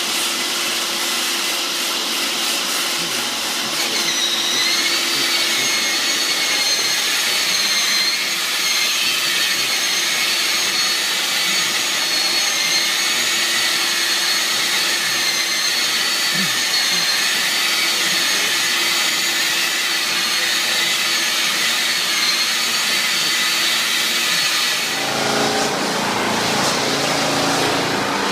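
A high-speed electric motor running steadily under a loud rush of noise, with a high wavering whine that starts about four seconds in; the whine stops near the end and the sound changes.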